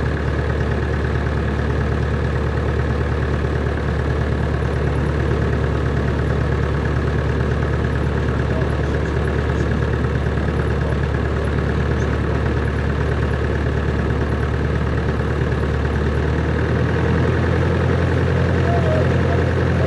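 Cessna 140's light-aircraft piston engine and propeller running steadily at low power. About three-quarters of the way through, the engine note changes and gets a little louder as the power is altered.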